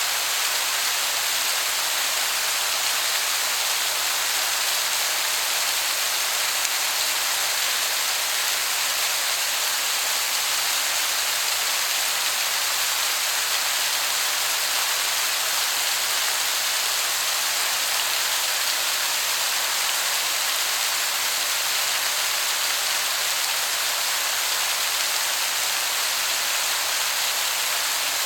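Waterfall heard from a distance as a steady, even hiss of falling water, sounding much like heavy rain.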